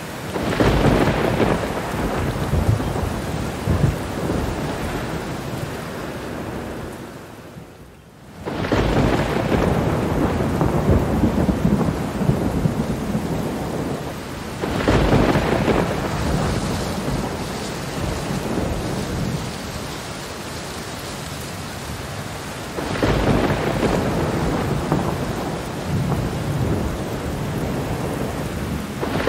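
Steady rain with rolling thunder that swells up several times, near the start, about eight seconds in, around fifteen seconds and again past twenty-two seconds. The whole sound dips briefly just before the second roll.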